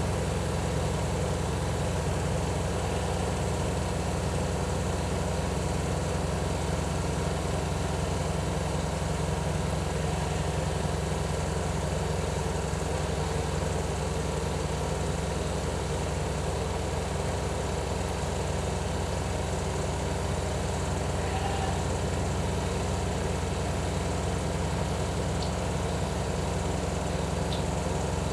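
Cat purring steadily and continuously close to the microphone, a low pulsing purr that does not let up, typical of a mother cat and her kittens while they nurse.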